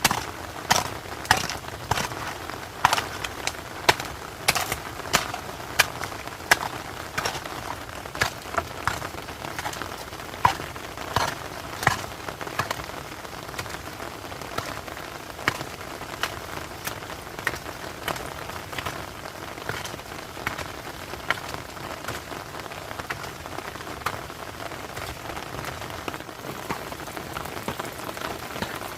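Heavy rain falling steadily, with many sharp, loud taps over it, frequent during the first half and thinning out after that.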